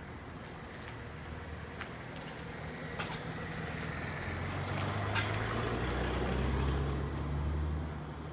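A motor vehicle passing close by, its engine hum growing louder over several seconds and fading near the end, with a few sharp clicks over steady street noise.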